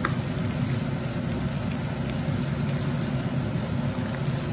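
Onions and tomato paste sizzling steadily in a hot non-stick wok while being stirred with a plastic spatula, with a light scrape of the spatula on the pan near the start.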